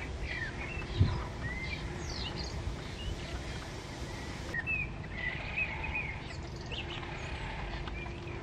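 Small birds chirping and whistling in short, rising and falling calls over a steady low outdoor rumble, with one brief low thump about a second in.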